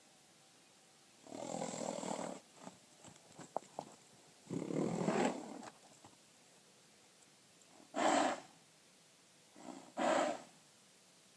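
A horse making low growling noises: four rough, breathy bursts. The first two last about a second each, then two short, sharp ones come about two seconds apart. A few faint clicks fall between the first two.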